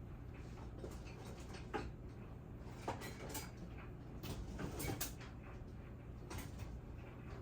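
Kitchen handling noises: a scattering of light knocks and clicks from containers and utensils being set down and worked, over a steady low hum.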